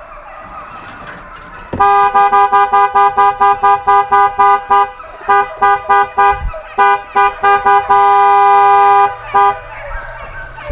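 Truck horn blown in rapid short toots, about three a second, with a few short breaks and one long blast about eight seconds in: the signal to call the hunting dogs off a doe.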